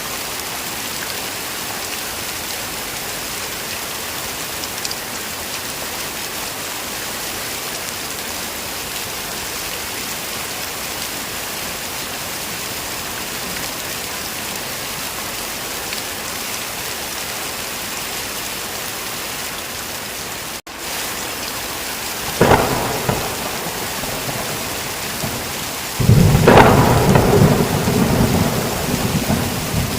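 Heavy rain falling with a steady hiss, broken by a brief dropout about two-thirds of the way in. A sharp thunderclap follows, and near the end a loud crack of thunder rolls into a deep rumble.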